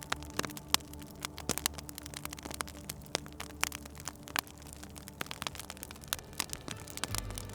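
Wood fire crackling, with frequent sharp pops and snaps at irregular intervals over a low steady hum.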